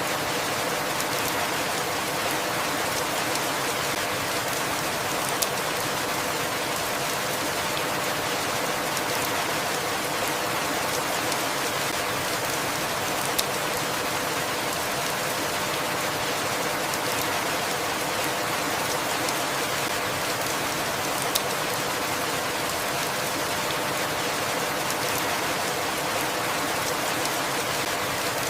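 Steady rainfall, an even rushing patter at constant level, with a few sharp ticks about eight seconds apart.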